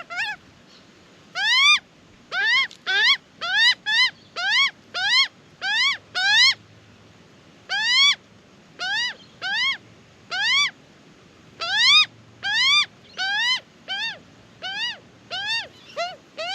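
Juvenile Australian magpie begging to be fed: a long run of short squawks that rise in pitch, about two a second, broken by a couple of brief pauses.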